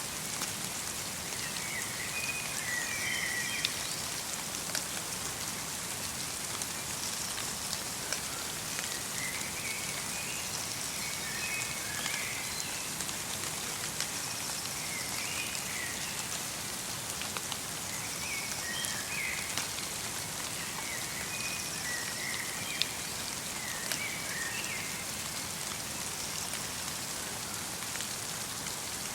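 Light rain falling steadily in a forest, with scattered drops ticking. Small birds give short chirping calls every few seconds.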